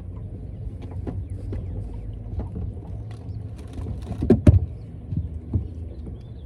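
Knocks and clatter of things being handled in a small fishing boat, the loudest pair about four and a half seconds in, over a steady low rumble.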